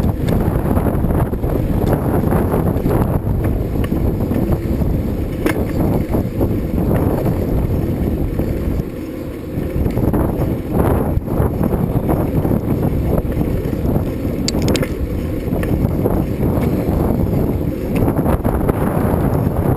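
Wind buffeting the microphone of a camera carried on a moving bicycle: a steady low rushing, easing off briefly about nine seconds in.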